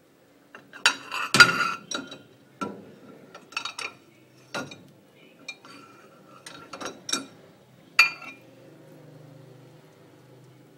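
Dishes and glassware clinking and knocking against each other as they are handled, about a dozen sharp clinks in uneven clusters, the loudest about a second and a half in, then stopping after about eight seconds.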